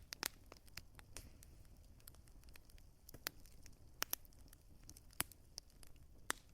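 Wood fire crackling: irregular sharp pops and clicks, a few much louder than the rest, over a soft low rumble.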